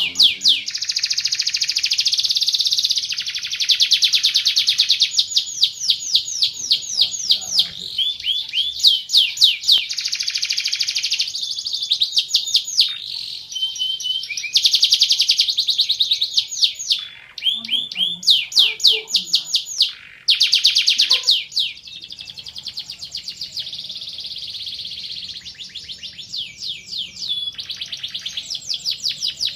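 Domestic canary singing a long competition-style song. The song is built of fast, high-pitched trills and rolls, each a rapid run of the same note repeated, which change speed from phrase to phrase, with brief breaks between phrases.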